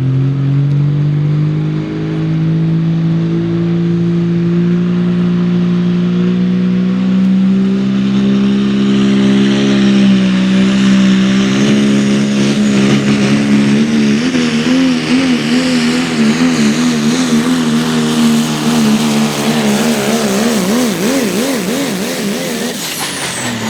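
Diesel 4x4 pulling truck running flat out under load as it drags the weight sled. The engine pitch climbs slowly, wavers rapidly up and down through the second half, then drops away near the end as the throttle comes off.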